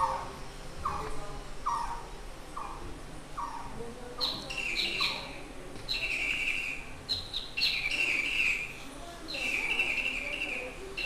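Birds calling: a short falling note repeated about every second, then from about four seconds in a run of longer, higher calls.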